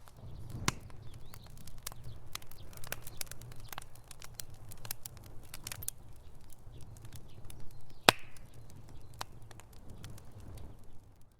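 Wood fire in a fireplace crackling: irregular sharp pops and snaps over a low rumble of the flames, with one loud pop about eight seconds in.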